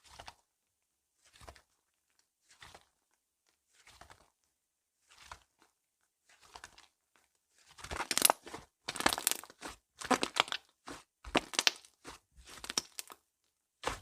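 Slime being pressed and squished by hand: soft separate squishes roughly every second at first, then faster, louder kneading and stretching through the second half.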